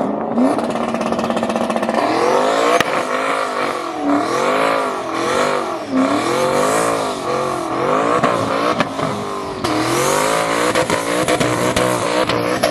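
Ford Mustang engine running hard, steadier for the first couple of seconds, then revved up and let fall again over and over, about once a second, over a steady hiss.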